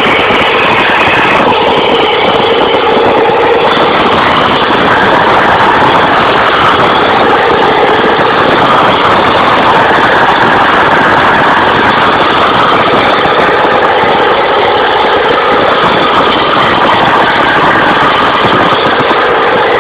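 Tractor engine running loudly and steadily, without letting up.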